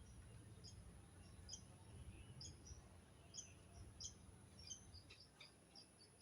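Faint birds chirping: short, high calls come several times a second, irregularly, over a low steady hum.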